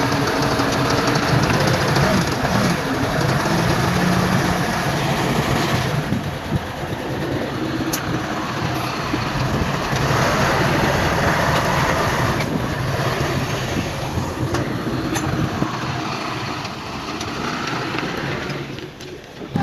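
Heavy diesel earthmoving machinery working: engines running steadily with a dense rumble and clatter, and a couple of brief sharp clanks. The sound drops away just before the end.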